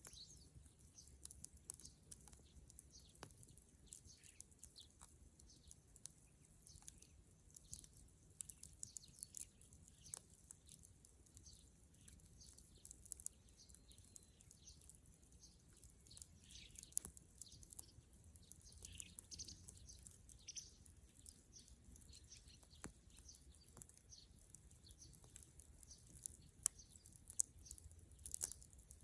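Bonfire of dry dead wood crackling softly, with a constant patter of small pops and a few sharper snaps near the end.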